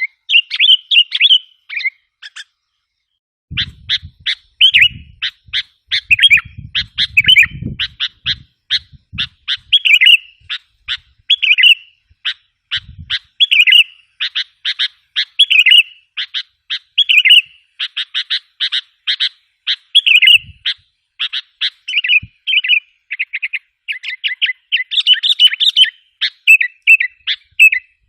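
Sooty-headed bulbul (kutilang) calling fast: a continuous run of short, bright chirps and warbled phrases, broken by a short silence a couple of seconds in.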